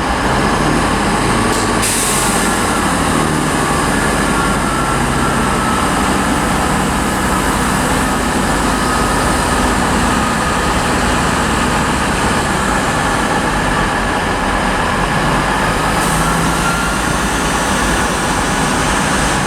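Diesel multiple-unit train engines running steadily, with a faint whine that dips and rises in pitch.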